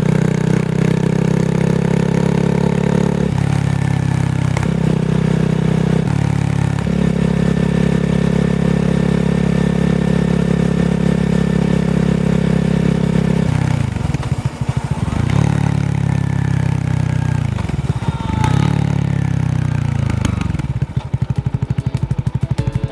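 Honda Rebel 250's single-cylinder engine running through its exhaust. It is held at steady revs that step up and down several times, falls and climbs again twice in the middle, and settles near the end to a low idle with distinct, evenly spaced firing pulses.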